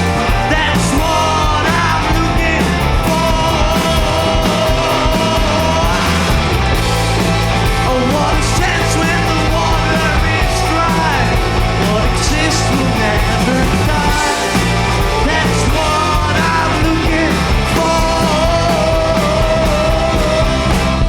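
Rock band playing a loud, steady passage, with a voice singing over it.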